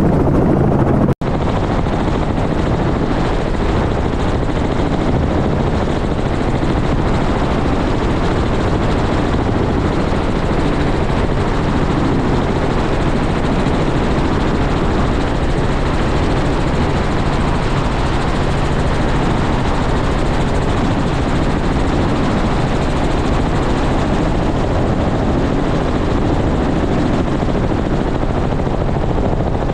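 Helicopter rotor and turbine running steadily. The sound cuts out briefly about a second in, then carries on.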